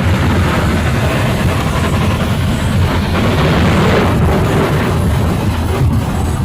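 Loud, steady low rumbling noise with a hiss above it.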